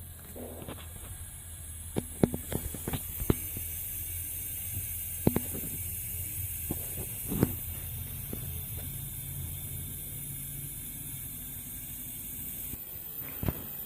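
Steady high-pitched hiss of air from a homemade smoke tester pressurising a car's intake during a boost and vacuum leak test. It is broken by sharp clicks and knocks: a quick run of them about two to three seconds in, then single ones near the middle and near the end.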